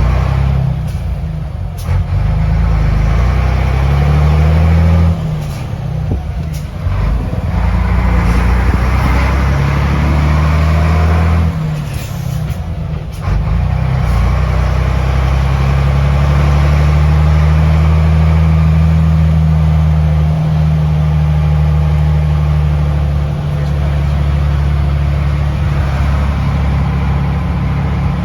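Scania 93 truck's diesel engine pulling through the gears: the engine pitch climbs, drops at gear changes about five, eleven and thirteen seconds in, then holds steady.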